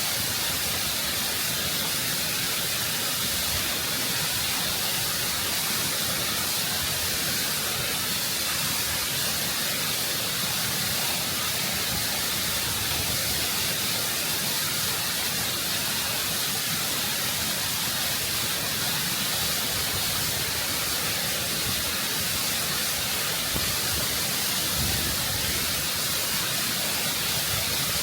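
Waterfall water rushing and cascading over rock at close range, a steady, even hiss.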